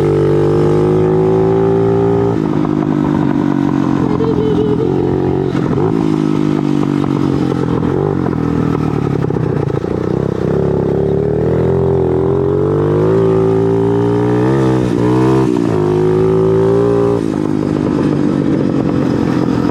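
Motorcycle engine running under way, its pitch rising and falling several times, with a quick run of rises and drops about fifteen seconds in.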